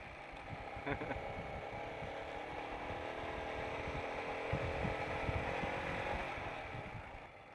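Royal Enfield Himalayan motorcycle's single-cylinder engine running under way, with wind buffeting the microphone. The engine note fades away near the end.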